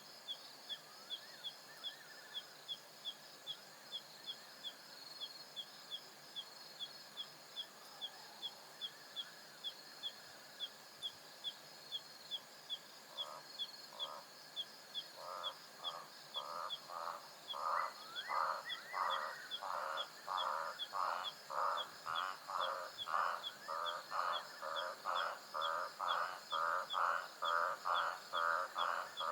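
Savanna night ambience: a steady high insect hum under a regular high-pitched chirp, two or three a second. About halfway in, a lower repeated animal call starts, about two pulses a second, and grows steadily louder.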